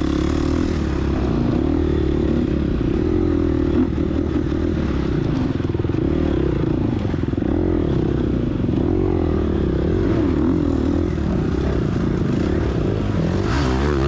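Gas Gas EX250F dirt bike's 250cc four-stroke single-cylinder engine running hard under race throttle, its pitch rising and falling as the rider works the throttle, with clatter from the bike over rough ground.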